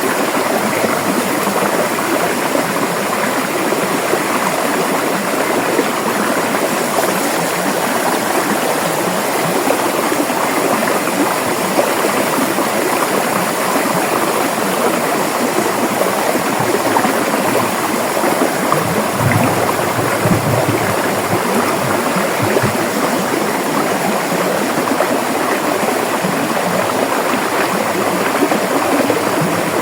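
A river flowing over rocks: steady rushing and splashing water.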